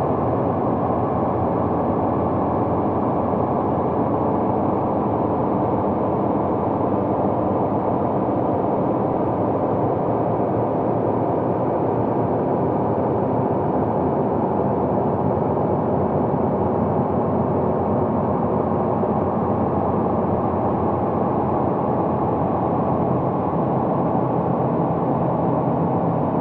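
Steady low rumbling noise, like wind or a distant engine, presented as the sound of Saturn's moon Titan.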